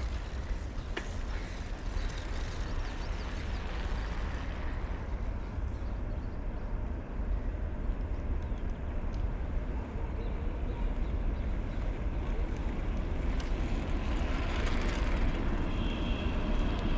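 A stream's water running with a steady rushing noise and a deep rumble underneath. A faint high whine joins in near the end.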